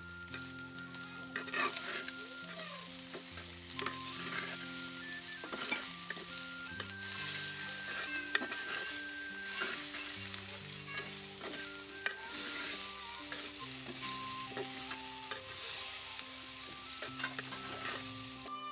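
Sliced onions, tomatoes and green chillies frying in a clay pot, sizzling in swells as a wooden spoon stirs and scrapes against the pot. A soft background melody runs underneath.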